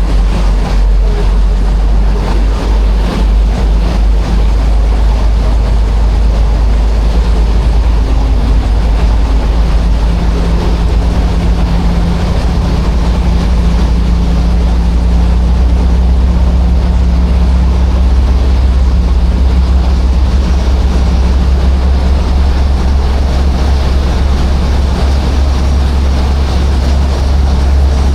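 A passenger ferry's engine running steadily at cruising speed: a deep, constant drone with a steady hum above it, over a continuous rush of water along the hull.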